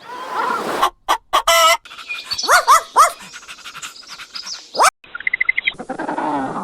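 A quick run of short animal calls cut together from several clips: pitched cries and yelps that rise and fall, with the background changing abruptly at each cut.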